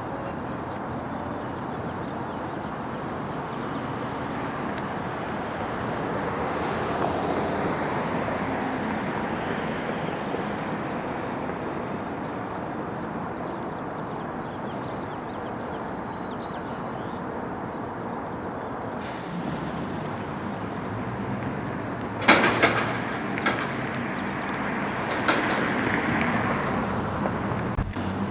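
McNeilus front loader garbage truck running steadily, its engine noise swelling for a few seconds. About two-thirds of the way through come bursts of loud clattering and banging.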